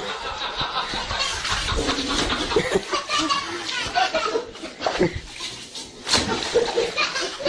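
People laughing and chattering, with short giggles and snickers.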